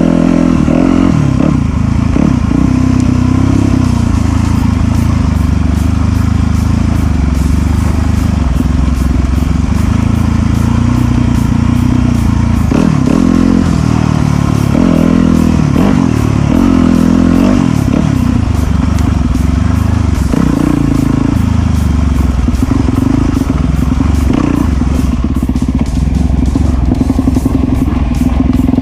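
Enduro dirt bike engine running under load, revving up and dropping back again and again as it rides a rough, muddy trail.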